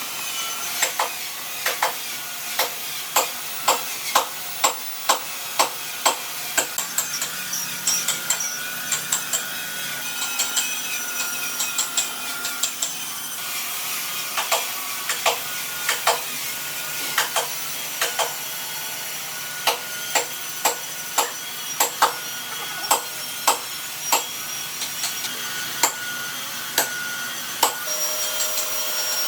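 Sharp knocks, one or two a second in uneven runs with short pauses, over a steady high whine.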